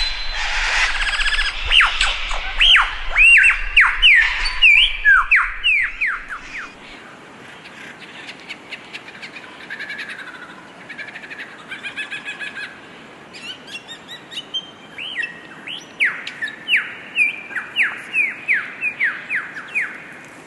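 A songbird singing a varied, fast song of sweeping whistled notes and chirps. It is loud for the first six seconds, turns quieter with mixed chirps and trills, then returns to a rapid run of repeated sweeping notes about fifteen seconds in.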